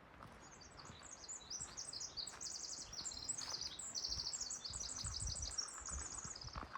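A songbird singing one long, high-pitched song of rapid trills and twitters lasting about six seconds, in an otherwise quiet forest.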